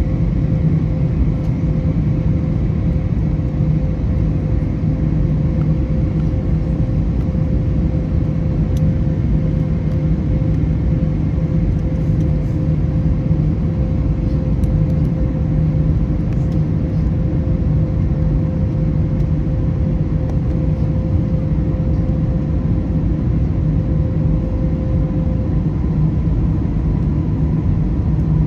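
Steady cabin noise inside an Airbus A321neo on its descent: a dense low rumble of airflow and the hum of its CFM LEAP-1A engines, with a steady tone in it. Near the end that tone fades and a higher tone takes over.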